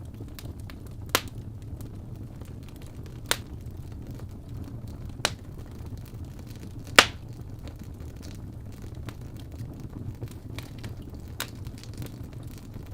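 Wood fire burning in a fireplace: a steady low rumble of flames with scattered faint crackles and four sharp pops from the burning logs, the loudest just after halfway.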